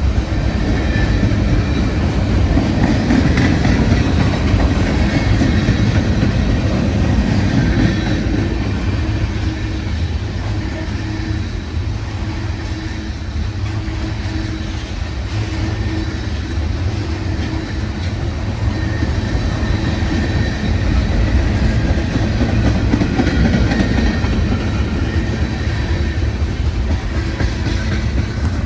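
A train passing, a steady rumble of wheels on rails that eases a little around the middle and builds again near the end.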